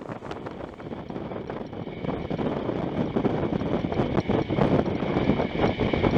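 Train in motion: a rumbling run with rapid clatter of wheels on the track, growing louder over the first three seconds, with wind on the microphone.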